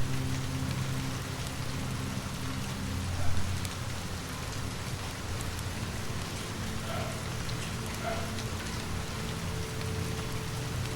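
Steady rain falling on a surface, over a low steady hum, with a brief low thump about three seconds in.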